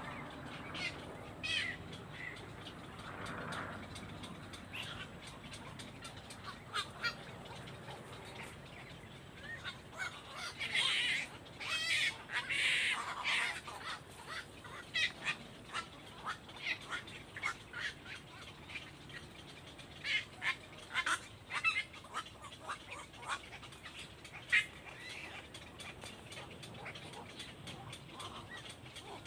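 Birds calling in many short, high chirps and peeps, with a louder, denser flurry of calls about halfway through.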